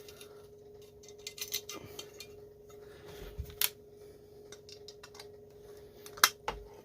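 Scattered small metallic clicks and taps of screws and a hand tool being worked into a STIHL 026 chainsaw's muffler, the sharpest clicks near the middle and near the end, over a steady background hum.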